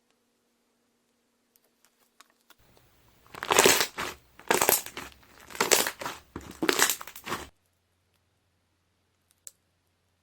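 Slime being pressed and squeezed, popping its trapped air bubbles in four loud squishy, crackly presses about a second apart, starting about three seconds in and stopping suddenly.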